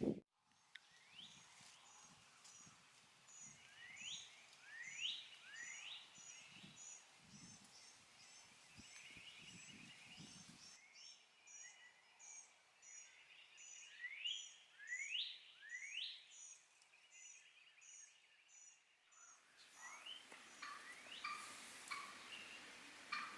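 Faint songbirds calling: a short high double chirp repeats about twice a second while rising whistled notes come in small groups. There are soft low thumps in the first half, and a different call pattern takes over near the end.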